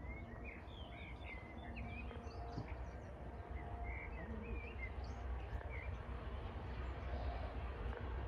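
Small birds chirping in quick, short calls during the first five seconds, over a low rumble that slowly grows louder.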